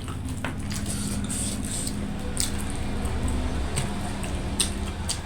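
Close-miked eating sounds: wet chewing and squishy mouth noises, with a few sharp clicks, over a steady low hum.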